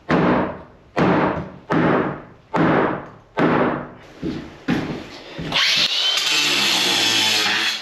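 Hammer blows on wooden wall framing, five heavy strikes about one every 0.8 s, then a few lighter taps. From about five and a half seconds a steady mechanical whirring noise with a faint rising whine takes over and cuts off abruptly.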